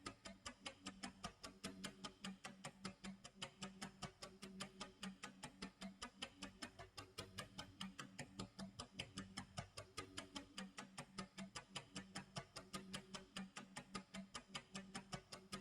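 Clock tick-tock sound effect: fast, even ticks, several a second, with a low tone pulsing under them.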